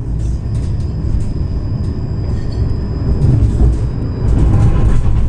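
Tram rumbling along the rails, heard from inside the car as it slows into the terminus, with a thin steady high whine for about four seconds.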